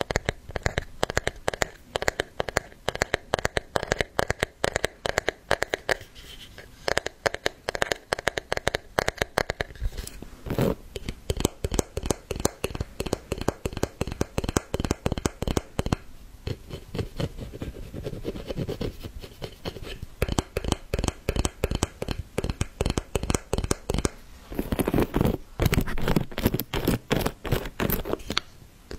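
Rapid scratching and tapping, many small sharp clicks a second, with louder stretches near the middle and end.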